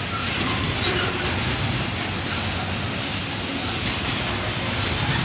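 Freight train of container-loaded flat wagons rolling steadily past, with the continuous rumble and clatter of the wagons' wheels on the rails.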